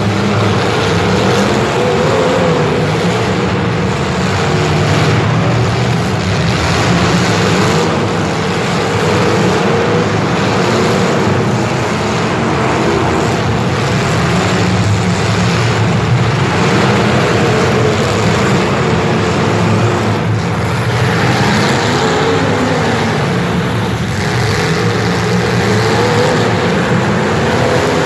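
A vehicle engine running continuously at a steady level, its pitch wavering slightly.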